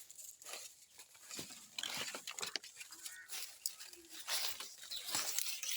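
Dry maize stalks being chopped and broken, with irregular crunching cracks and rustling of dry leaves.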